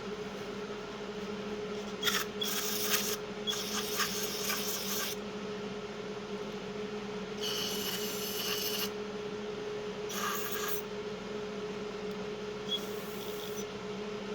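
Aerosol carb cleaner sprayed into a Briggs and Stratton carburetor's holes and jets in five short hissing bursts, each a second or two long, flushing out gunk. A steady low hum runs underneath.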